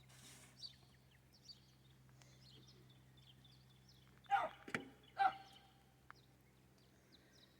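Quiet outdoor ambience with faint scattered chirps, broken by two short calls falling in pitch about four and five seconds in.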